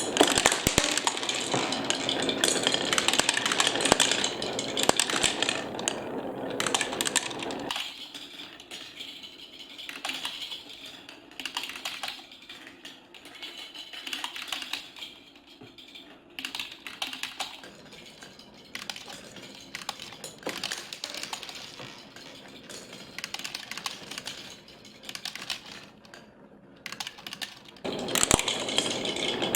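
Small motor of a toy mini washing machine running, its drum tumbling small plastic balls that rattle and clatter. About eight seconds in it goes quiet, leaving scattered light clicks of balls, and the dense rattling starts again near the end.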